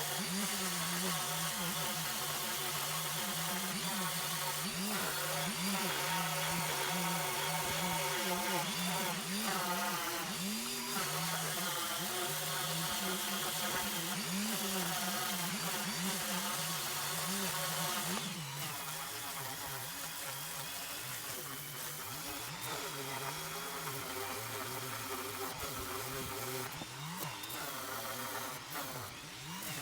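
A woodworking power tool's electric motor running steadily, its pitch wavering up and down as the load on it changes; it gets a little quieter partway through.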